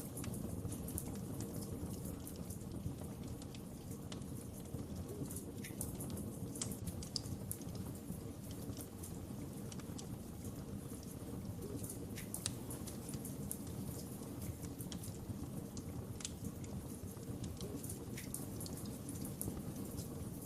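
Wood fire burning in a fireplace: a steady low rush with frequent small, sharp crackles and pops scattered irregularly throughout.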